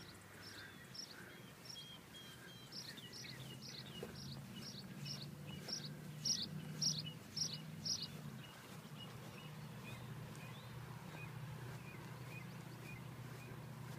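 A bird calling a series of short, high chirps, about two a second, getting louder and then fading, followed by a fainter run of single notes. A steady low hum runs underneath.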